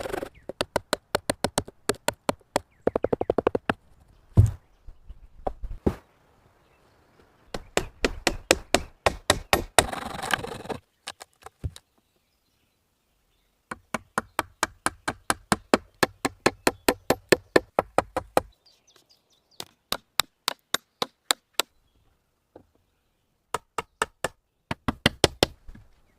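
Rapid knocking on wood in runs of about four or five sharp knocks a second, with short pauses between the runs.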